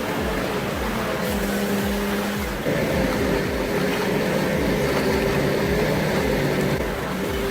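Forestry machine's engine running steadily under load, its pitch and loudness shifting about three seconds in.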